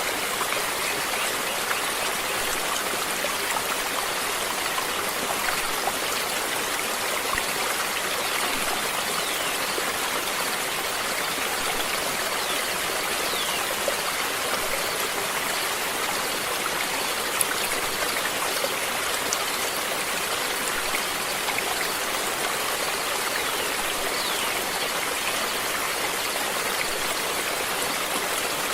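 Flowing water running steadily, a continuous rushing hiss of a stream.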